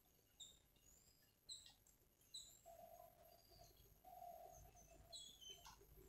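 Faint wild birdsong: short high chirps repeated about once a second, with two longer low hooting calls around the middle.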